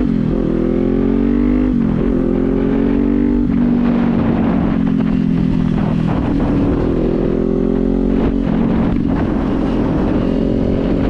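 Kawasaki Z400 parallel-twin engine accelerating through the gears: the revs climb and drop with each upshift in the first few seconds, then hold steady at cruising speed. A constant low wind rumble on the helmet microphone lies underneath.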